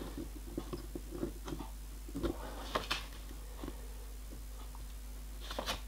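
Light clicks and taps of metal parts being handled: two meshed spur gears and a measuring tool set up for a measurement across the gear bores. The taps come in an irregular run over the first few seconds, then a few more near the end.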